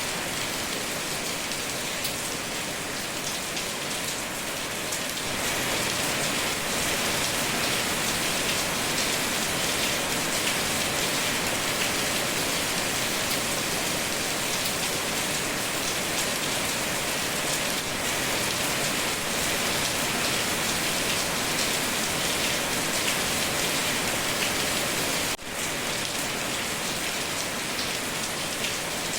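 Steady heavy rain, an even dense hiss of drops that grows slightly louder about five seconds in. It cuts out for an instant near the end.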